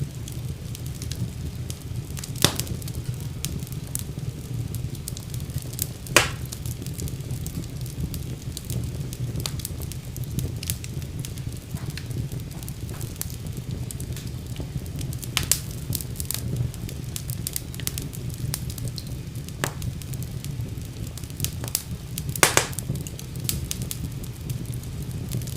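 Wood fire burning in a fireplace: a steady low rumble of the flames with frequent scattered crackles and pops, a few of them sharper and louder.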